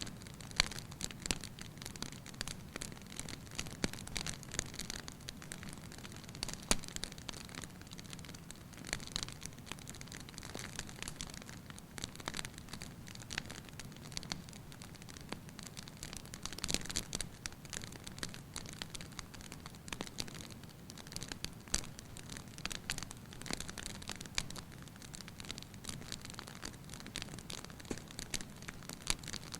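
Wood fire burning in an open hearth, crackling with frequent irregular pops and snaps over a soft hiss.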